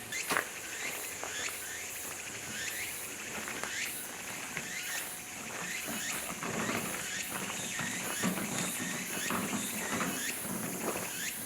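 Forest ambience: a steady high chirring of insects with many short rising chirps over it. A sharp knock comes just after the start, and there is scattered low clatter in the second half.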